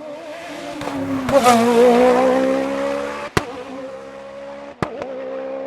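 Race car engine accelerating up a hillclimb course and passing, its note swelling to a loud peak about a second and a half in and then fading, with a sharp crack about three seconds in and two more close together near the end.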